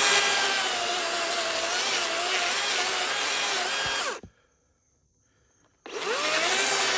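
DeWalt electric chainsaw running through wood, its motor whine wavering under load; it winds down about four seconds in and starts up again a second and a half later. The chain feels dull and possibly short of oil.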